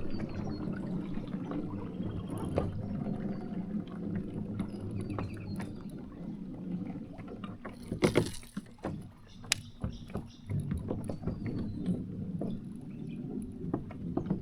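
Sounds of a kayak on the water: water gurgling and lapping against the hull under a steady low rumble, with scattered small clicks and knocks from the boat and gear, and one louder knock about eight seconds in.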